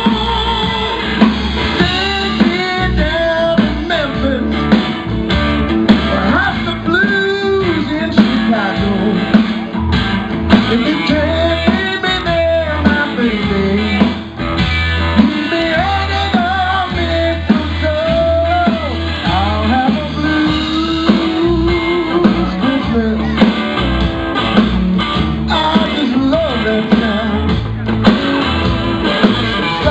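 Live band playing an upbeat blues Christmas song, led by guitar, with singing.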